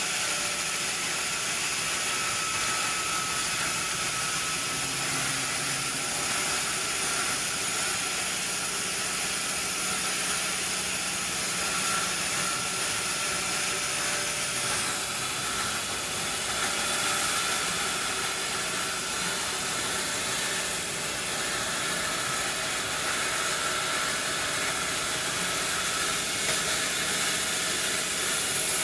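Sawmill machinery running steadily: a continuous hiss-like noise with a faint steady whine.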